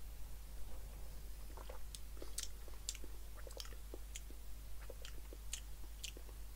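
Faint, irregular wet mouth clicks and lip smacks of someone chewing and tasting a mouthful of aloe vera drink with pulp.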